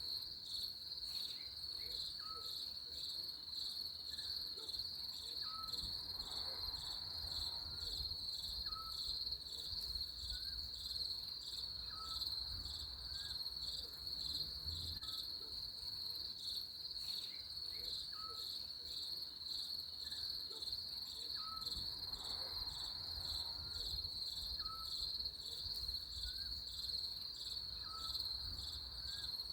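Crickets trilling in a steady, high-pitched pulsing chorus, with a short soft chirp repeating about once a second or so lower down.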